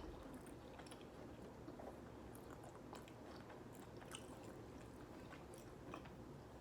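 Faint chewing of McDonald's Chicken McNuggets, with scattered soft mouth clicks.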